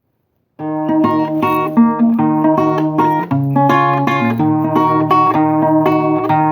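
Acoustic guitar playing a rhythmic pattern of plucked notes and chords, starting about half a second in.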